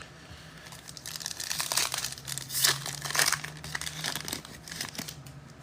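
Foil trading-card pack wrapper crinkling and tearing as it is opened by hand, with a dense run of sharp crackles from about a second in until near the end.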